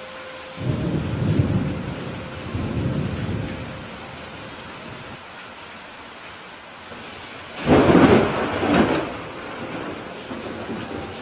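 Steady rain falling, with a low rolling rumble of thunder about a second in and a louder, sharper thunderclap near the end.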